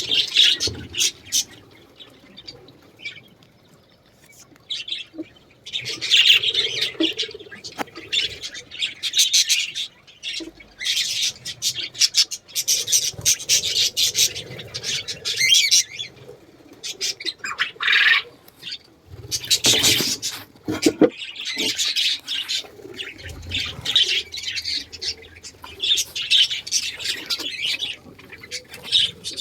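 Pet birds in a breeding aviary chattering, chirping and squawking in repeated bursts, with a quieter lull a few seconds in. A few knocks and rustles about two-thirds of the way through.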